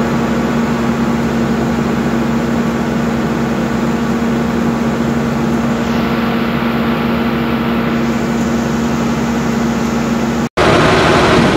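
New Holland TM tractor's diesel engine running steadily while warming up from a cold start, one constant engine note. Just before the end, after a brief break, the engine note drops as the revs fall.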